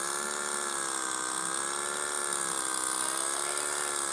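Small motorcycle engine running at a steady riding speed, its pitch wavering gently up and down with the throttle.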